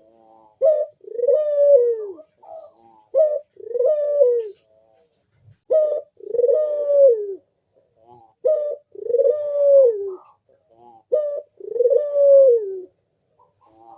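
Barbary dove cooing in a steady rhythm: five two-part coos, each a short note followed by a longer note that drops in pitch at the end, about every two and a half seconds, with softer calls between them.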